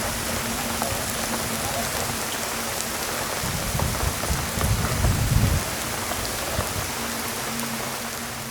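Heavy rain falling steadily, with a low rumble swelling up about halfway through and dying away a couple of seconds later.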